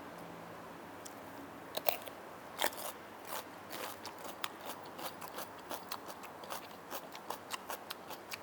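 Close-miked eating of crunchy food: a couple of crisp bites about two seconds in, then steady crunchy chewing at about two or three crunches a second.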